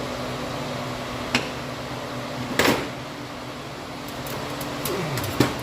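Steady machine hum, with three sharp knocks and clunks from a window air-conditioning unit being handled into place: about a second in, in the middle, and the loudest near the end.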